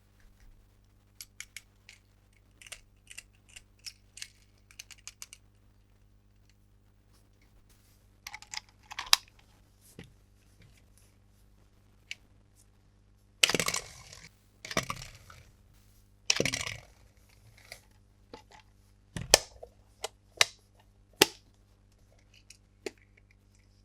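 Hands handling toy packaging: a quick run of small plastic clicks, then scattered crinkles, rustles and single knocks as packaging is opened and parts are taken out.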